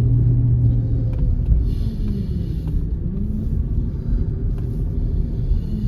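A V8 car engine and road rumble heard from inside the cabin while driving, with a steady low hum whose pitch drops and climbs again about two seconds in and once more near the end.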